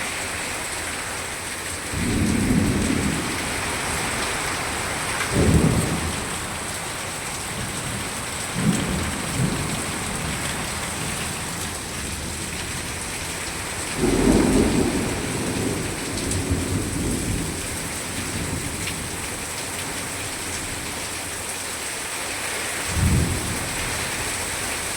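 Heavy rain falling steadily, with five short low rumbles scattered through it.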